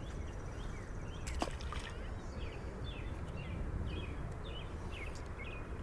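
A small bird chirping: a quick series of short, falling notes, about three a second, over a steady low outdoor rumble, with one sharp tick about a second and a half in.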